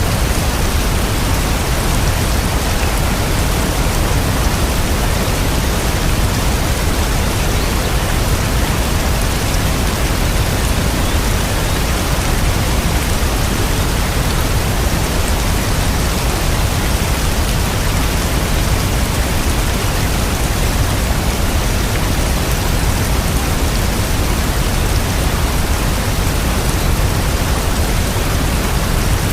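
Steady rain: a dense, even hiss with a low rumble underneath, no single drops or thunderclaps standing out.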